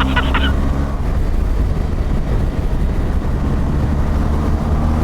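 Motorcycle engine running at road speed under heavy wind and road noise. The engine's steady hum fades into a rushing wash of wind about a second in, then comes back with a slight rise in pitch near the end.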